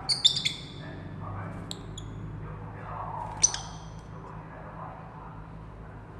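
Lovebirds giving short, shrill squawks: a quick cluster right at the start, two faint chirps a little before the two-second mark, and one loud squawk about three and a half seconds in.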